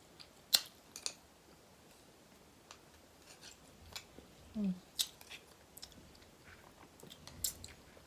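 Eating crab: scattered sharp cracks and clicks of crab shell and utensils, with chewing in between. A brief hummed voice sound comes about four and a half seconds in.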